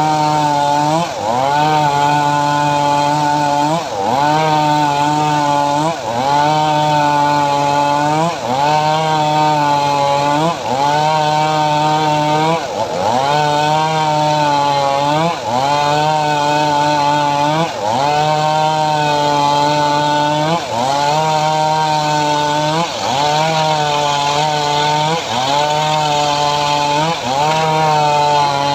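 Engine of a homemade srekel saw rig ripping mahogany, running hard under load. Its pitch dips and recovers about every two and a half seconds as the blade bites into the wood.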